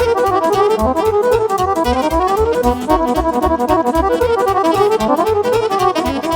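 Instrumental interlude of fast Romanian folk party music: accordion playing quick melodic runs over a steady, driving bass beat, with a violin.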